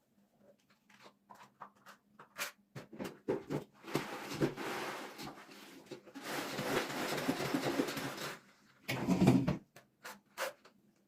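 Household cleaning handling sounds: scattered small knocks and clicks, two stretches of rubbing or wiping lasting a second or two each, and a heavier thump-like burst near the end.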